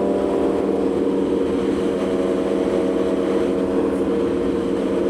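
Aprilia Tuono V4 motorcycle's V4 engine running steadily at cruising speed, under a rush of wind noise, with its pitch holding nearly constant.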